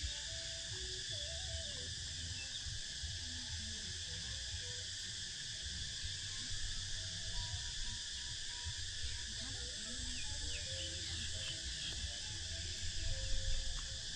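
Outdoor birdsong ambience: faint, scattered short chirps over a steady high-pitched drone and a low rumble.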